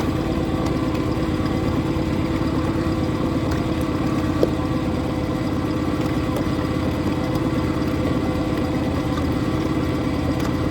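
Motorboat engine idling steadily, an even hum that holds the same pitch and level throughout, with one small click about four seconds in.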